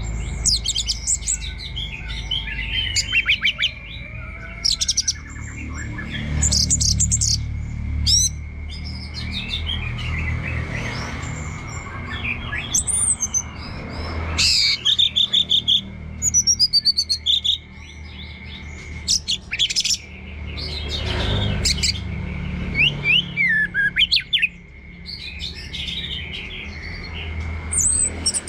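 Orange-headed thrush singing a long run of varied, quick whistled phrases and rapid trills with short pauses between them, over a steady high-pitched hum.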